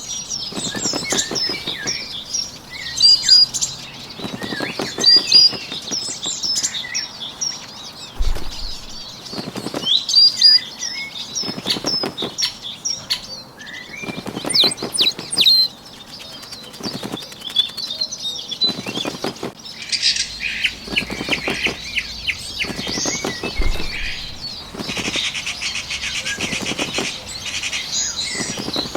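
Bird wings flapping in repeated bursts, roughly every two seconds, over birds chirping. A fast buzzy trill sets in for the last few seconds.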